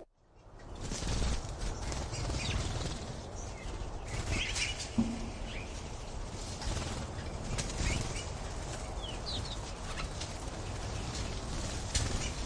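Bird wings flapping over a steady rustling haze that fades in during the first second, with a few short high chirps scattered through it.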